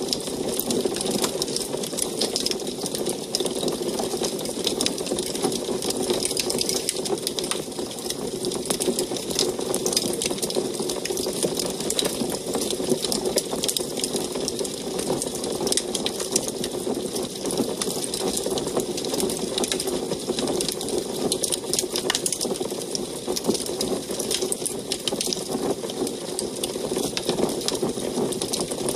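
Wood fire burning in an antique wood stove, crackling densely and irregularly over a steady low rush.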